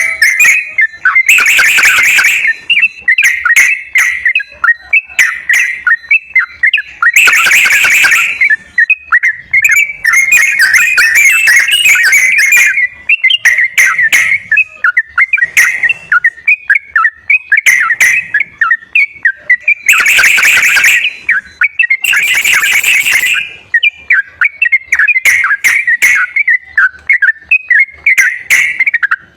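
Trucukan (yellow-vented bulbul) song, loud and continuous: a steady run of quick bubbly chirps and whistles, broken four times by louder, harsher chattering bursts.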